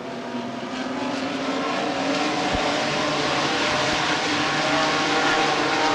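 A pack of short-track race trucks running at speed around the oval, several engines sounding at once. The sound grows louder over the first couple of seconds as the field comes closer, then holds steady.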